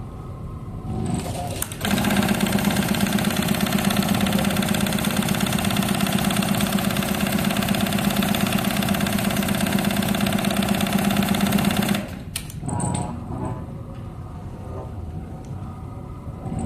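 Industrial sewing machine for electric heated eye masks stitching at speed with a steady motor hum and fast needle chatter, starting about two seconds in and stopping abruptly around twelve seconds in, leaving quieter handling sounds.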